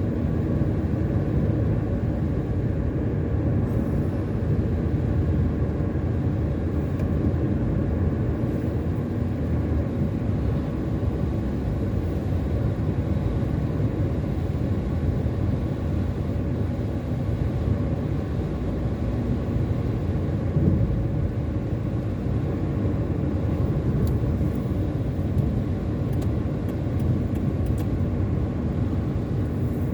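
Car driving along a highway at steady speed, heard from inside the cabin: a constant mix of engine hum and tyre and road noise.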